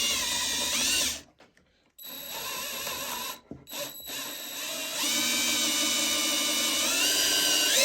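Power drill whining as it bores a hole through scrap wood into the piece below, in several runs with short pauses. The longest run comes in the second half, its pitch sagging under load near the end.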